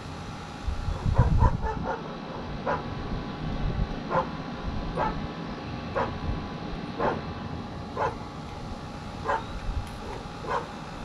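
A dog barking over and over, short sharp barks about once a second, starting about a second in. A loud low clunk of handling noise comes just before the barking begins.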